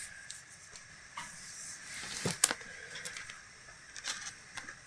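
Faint handling noise: soft rustling with a few light clicks and taps as the pieces of a wooden lamp ornament are handled and measured, the sharpest clicks about halfway through.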